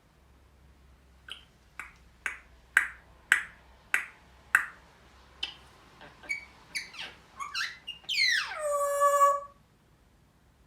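African grey parrot making a run of seven sharp clicks, about two a second, then several quick downward chirps, and ending in a long whistle that slides down in pitch and then holds steady.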